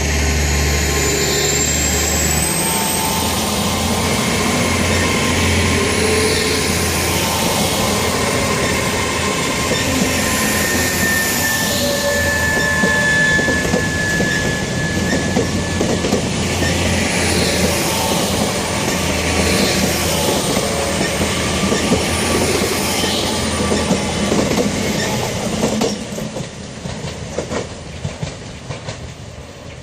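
Two coupled GWR Class 800 IET bi-mode units pulling out under diesel power: underfloor engines running and a rising traction whine at first, then wheels clicking over rail joints with a high wheel squeal held for a few seconds about halfway. The sound fades from a few seconds before the end as the train leaves.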